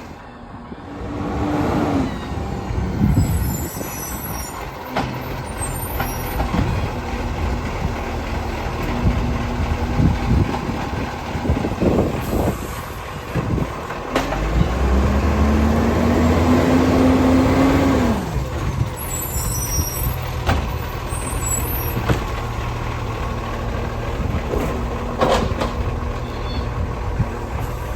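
Garbage truck's diesel engine running, revving up for about three seconds midway and then dropping back, with two short air-brake hisses.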